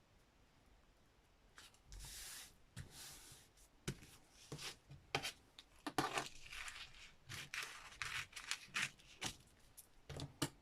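Paper and card being handled on a desk: after a quiet first second or so, a run of irregular short rustles, scrapes and taps.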